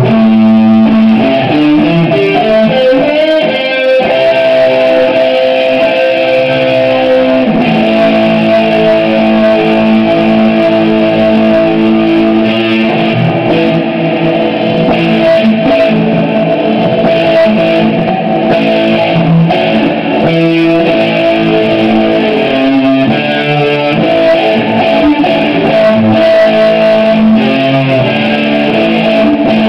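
Electric guitar played through an amplifier that is being tested after repair, loud and continuous, with held notes and chords that change every few seconds.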